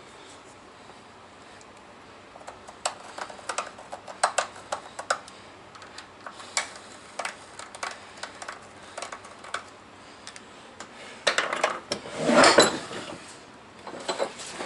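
Scattered metal clinks and knocks of tools and hardware being handled on a workbench, with a louder rattling clatter near the end.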